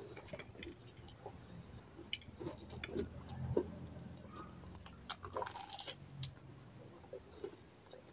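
Chewing of deep-fried samosas: irregular small crunches and mouth clicks.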